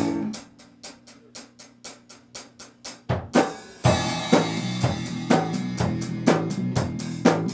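Live rock band starting a song's instrumental intro: the drum kit plays a steady beat of snare, hi-hat and kick alone at first, and about three seconds in bass and guitars come in loudly with the full band.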